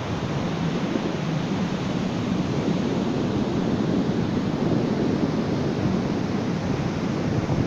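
Ocean surf washing on a beach in a steady rush that swells slightly in the middle.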